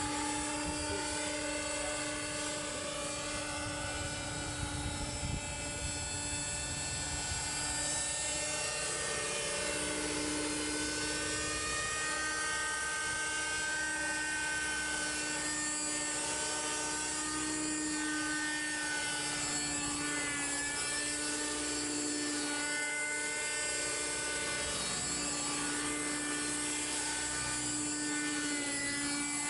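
Raptor 30 RC model helicopter with an MD 500 scale body in flight: the steady high whine of its small nitro glow engine and rotor head. The pitch rises and dips slightly as it manoeuvres.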